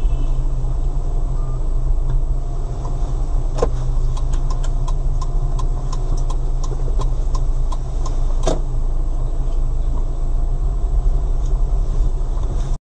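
Car interior noise: a steady low engine and road rumble, with a run of light regular clicks through the middle and two sharper knocks. It cuts off abruptly near the end.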